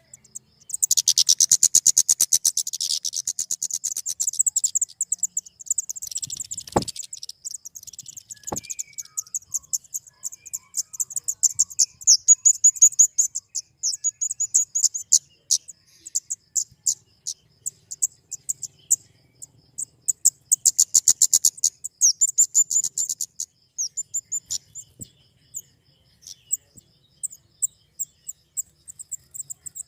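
Flowerpecker (kemade) calling: very high-pitched, rapid ticking chip notes in fast runs, with denser trilled bursts near the start, in the middle and about two thirds through. Two sharp clicks come about a quarter of the way in.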